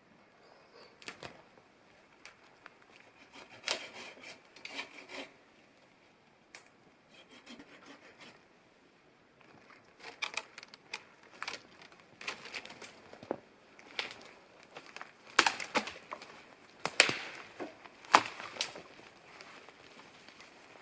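Dry wood cracking and snapping in irregular sharp cracks, sparse at first and coming thicker and louder in the second half.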